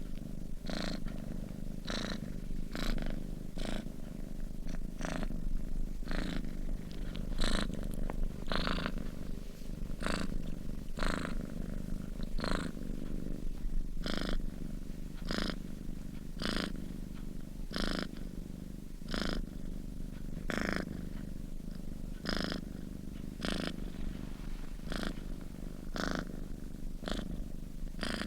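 A sleeping domestic cat purring steadily in a low continuous rumble, with a breathy rasp at each breath, about one a second.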